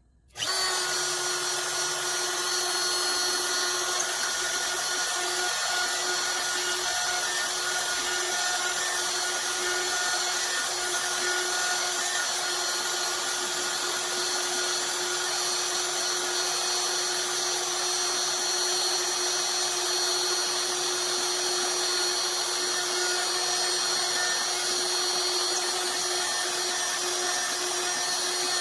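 Bob's CNC router engraving wood: the router spindle runs at a steady high whine over the hiss of the bit cutting, starting abruptly and holding even throughout.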